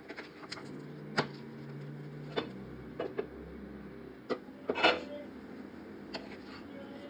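Short, sharp clicks and knocks of a cooking utensil against a pan, about ten spread irregularly, with a louder clatter near the middle, over a steady low hiss of the pan cooking.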